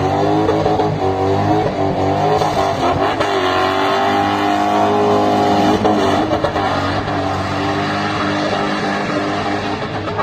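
V8 engine of a BMW 325i revving, its pitch rising and falling, held high for a couple of seconds in the middle before dropping back.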